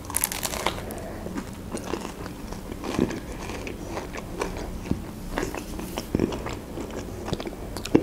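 Biting into and chewing a fruit-filled pastry dessert pie: the crisp crust crunches in a run of short crackles and clicks, a few of them louder.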